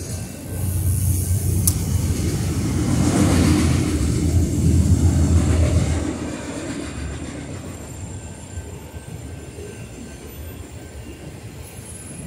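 Freight train of autorack cars rolling through a grade crossing: a steady rumble of wheels on the rails, louder for the first six seconds and then easing off.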